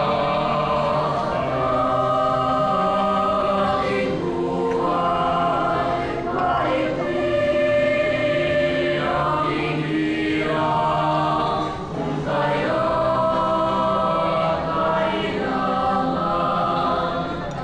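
A choir singing, many voices holding long notes together in phrases with short breaks between them.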